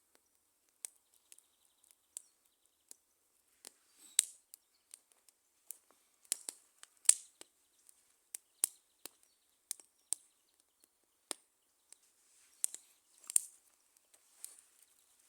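Wood bonfire crackling: irregular sharp pops and snaps, a few of them louder, over a faint hiss.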